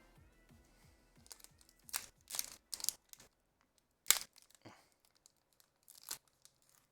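Foil Pokémon TCG booster pack wrapper being torn open and crinkled in the hands, a handful of short sharp rips, the sharpest about four seconds in. Faint electronic background music fades out in the first second or so.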